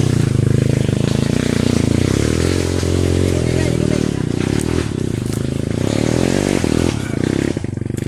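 Trail motorcycle engine revving hard under load, its pitch rising and falling as the rider works the throttle. The engine sound cuts off abruptly at the very end.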